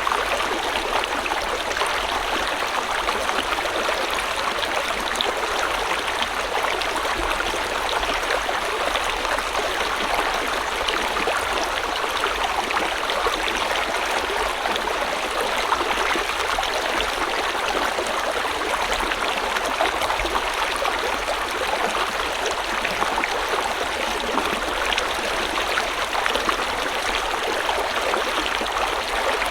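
River water flowing steadily over rocks, an even rushing and burbling without pauses.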